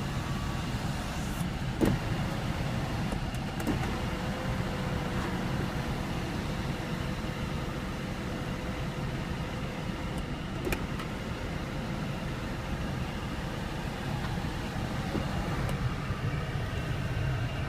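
The electric moonroof of a 2014 BMW 535i running, a faint steady motor whine from about four to fifteen seconds in, with a few light clicks, over the steady low rumble inside the car's cabin.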